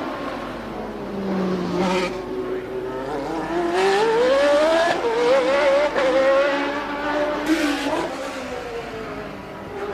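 1988 Formula One race car engine at high revs. Its pitch climbs steeply about three seconds in, then holds high, with brief breaks at gear changes about five, six and eight seconds in.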